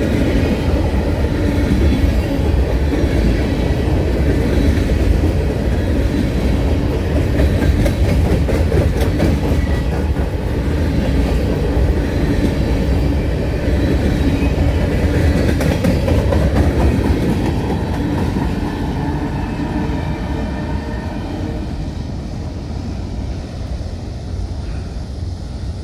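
Freight train rolling past, its cars and wheels giving a steady, heavy rumble that fades away over the last few seconds as the train moves off.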